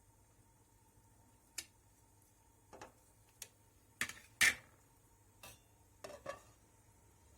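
Light, scattered kitchenware clatter: about eight short clicks and knocks at irregular intervals. The loudest, about halfway through, rings briefly.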